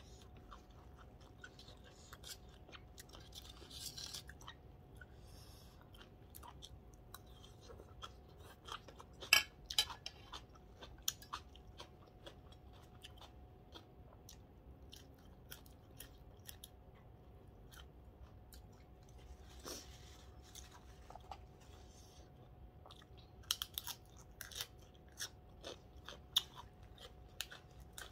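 A person chewing and crunching mouthfuls of papaya salad and raw vegetables close to the microphone, with scattered sharp crunches and mouth clicks that come most densely about nine seconds in and again near the end. A faint steady thin hum sits underneath.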